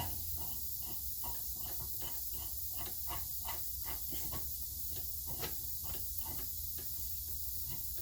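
Faint, irregular light clicks and ticks of hand tools and bolts being handled during brake and hub reassembly, over a steady low hum and hiss.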